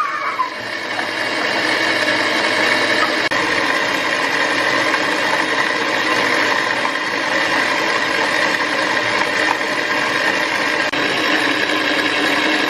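A small electric motor running steadily at a constant speed, with a dense hum and whine. The sound cuts off suddenly at the end.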